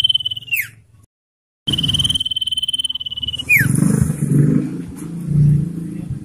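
Common iora giving its long rattling trill, a high steady buzzy trill that ends in a quick falling note, twice. After the second trill there is a low rumbling noise.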